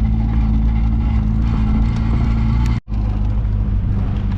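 Classic car's engine running steadily under a constant hum of road noise while driving. The sound cuts out for an instant a little under three seconds in.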